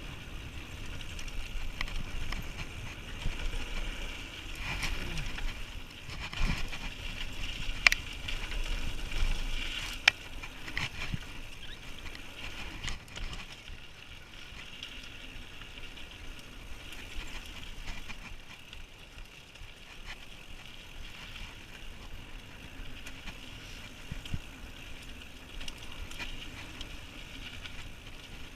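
Mountain bike riding down a dirt trail: tyre rumble and the bike rattling, with sharp knocks over bumps mostly in the first half, over a steady high buzz.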